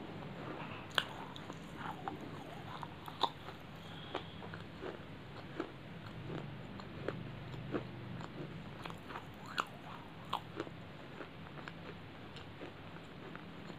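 Close-miked chewing of crunchy baked clay pieces: irregular sharp crunches come several times a second, over a low steady hum.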